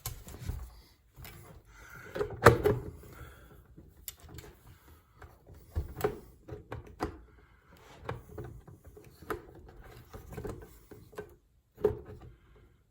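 Parts of a headlight assembly being handled and worked into place by hand: scattered clicks, taps and knocks, the loudest about two and a half seconds in.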